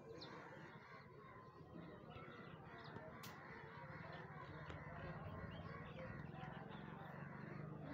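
Faint birds chirping over a low steady hum that grows a little stronger midway, with a single sharp click about three seconds in.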